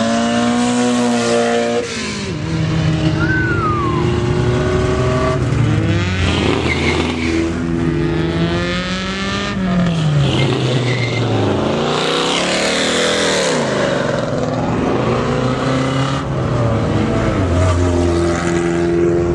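Car engines revving, their pitch rising and falling several times, with a stretch of tire squeal about twelve seconds in.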